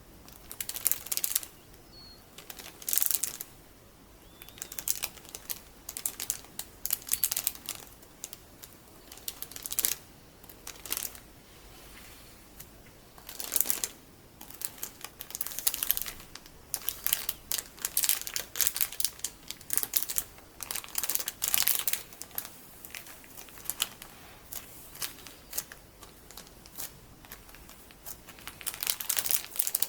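Crisp crinkling and crackling in irregular bursts with short quiet gaps: sticky beads worked close to the microphone by metal-capped fingertips.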